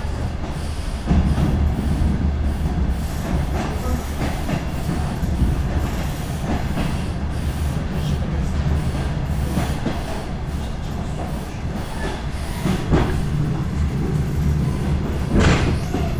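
DR1A diesel train running along the line: a steady low rumble, with the wheels knocking over rail joints now and then.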